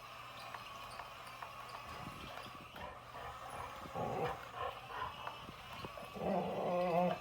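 Boxer dog whining: a short whine about four seconds in, then a longer, wavering whine near the end, over faint clicks and a steady low hum.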